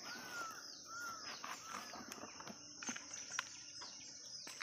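Birds chirping and calling in short arched notes, over a steady high hiss, with a few faint ticks.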